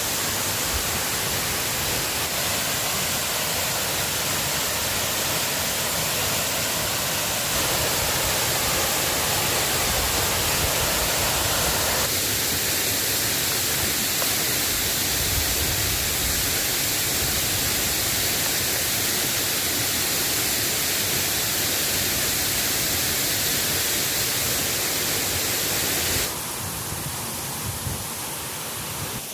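Steady hiss of rain falling, changing abruptly in tone and level a few times, most plainly dropping in level near the end.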